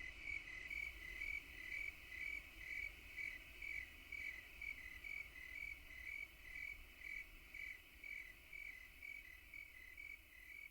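Cricket chirping faintly in a steady, even rhythm, about two chirps a second, over a low steady hum.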